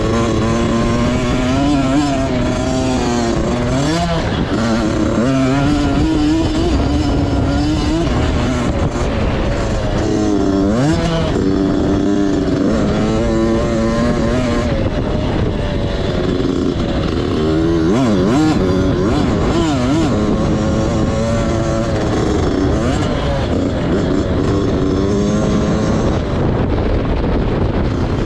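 Motocross bike engine running hard, its pitch repeatedly climbing and dropping back as the throttle is opened and shut off.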